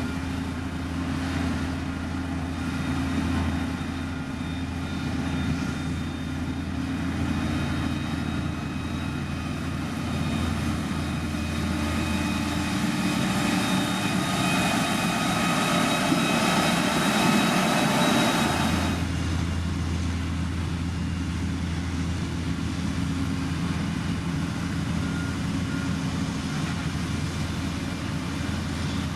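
Heavy construction machine's diesel engine running steadily. It grows louder and harsher from about a third of the way in, then drops back suddenly about two-thirds of the way through.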